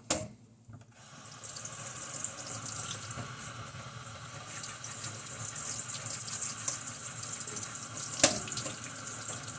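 Kitchen faucet running water into the sink, a steady hiss that starts about a second in. A single sharp click near the end.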